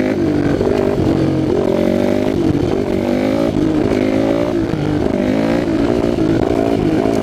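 2006 Yamaha WR450F's single-cylinder four-stroke engine, revving up and down several times through a loud FMF slip-on exhaust whose packing is blown out.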